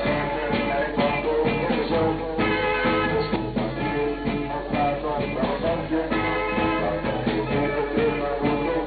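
A 1960s beat group playing a rock song live, with electric guitars, bass guitar and drums.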